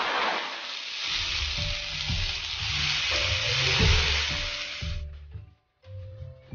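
Egg and chopped tussah silk moths sizzling in hot oil in a wok as they are stir-fried. The sizzle stops abruptly about five seconds in, leaving background music.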